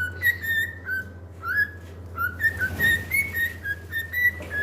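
A pet parrot chirping a run of short, clear whistled notes, about three a second, all near the same pitch, some sliding upward.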